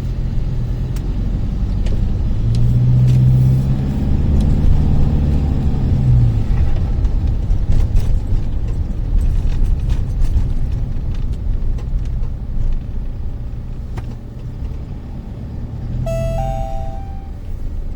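Car being driven at around 40–50 km/h: steady low engine and road rumble, heaviest a few seconds in. A short electronic tone sounds near the end.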